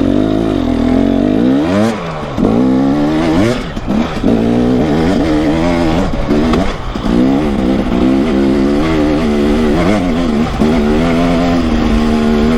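Two-stroke dirt bike engine being ridden on a trail, revving up and falling back again and again as the throttle opens and closes, with short drops in revs about two and four seconds in.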